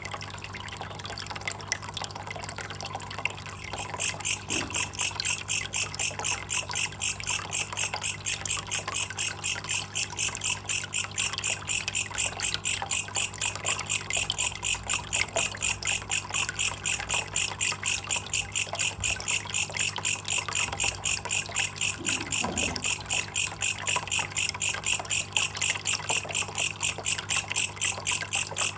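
Water trickling, and from about four seconds in a rapid, evenly pulsed high chirping call repeating steadily over it, several pulses a second.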